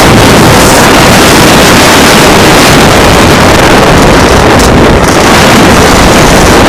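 Honda CR85 two-stroke dirt bike engine running close to the phone, so loud that the recording is overloaded and distorted throughout.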